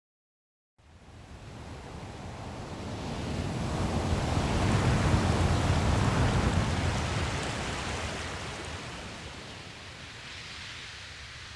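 Silent for about the first second. Then a recorded ocean wave fades in, swells to a peak near the middle and ebbs away, leaving a softer surf hiss near the end.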